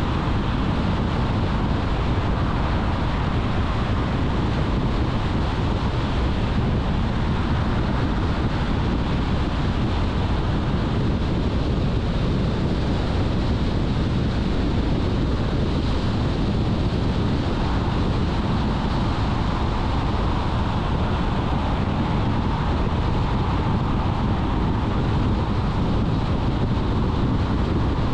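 Steady road noise of a car driving at speed: tyre and wind noise, with no change in level.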